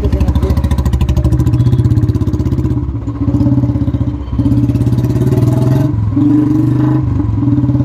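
Royal Enfield Classic 350's single-cylinder engine and exhaust running at road speed, a steady thump of firing strokes. The beat dips briefly three times, about three, four and six seconds in.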